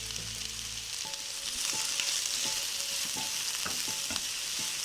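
Chicken, onion and capsicum sizzling as they fry in a pan, with a spatula tapping and scraping against the pan now and then as the mix is stirred. The sizzle grows louder about a second and a half in.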